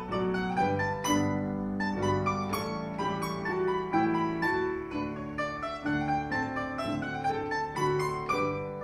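Domra playing a quick run of plucked melody notes over piano accompaniment.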